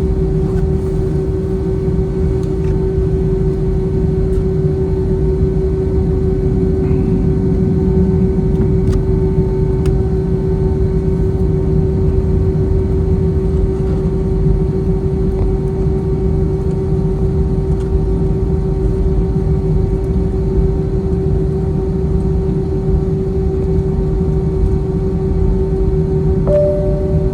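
Steady cabin drone of an Airbus A321 taxiing: a constant low rumble with a strong, even hum tone held throughout.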